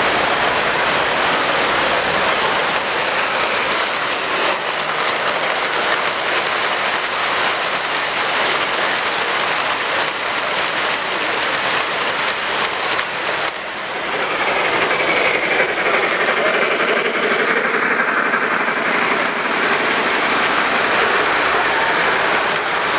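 A model train rolling along a layout's track, its wheels clicking lightly, over the steady noise of a busy exhibition hall. The sound shifts briefly about two-thirds of the way through.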